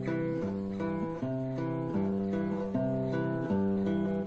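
Background music: acoustic guitar picking a series of chords, a new chord about every half second.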